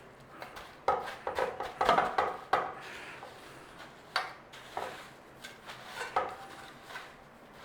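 Breadcrumbs being pressed and rubbed onto a chicken breast by hand, an irregular rustling and scraping, followed by a few light knocks of a dish.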